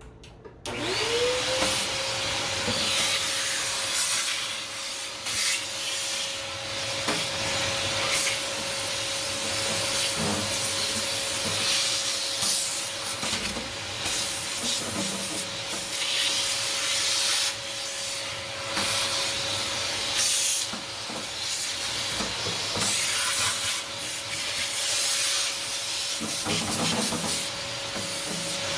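Vacuum cleaner switched on about a second in, its motor rising quickly to a steady whine and running, the suction noise rising and falling as the nozzle is moved over surfaces during cleaning.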